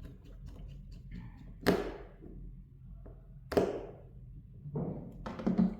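Two sharp knocks of hard objects set down or struck on a work surface, about two seconds apart, each with a short ringing tail, followed near the end by a few smaller knocks and handling clatter.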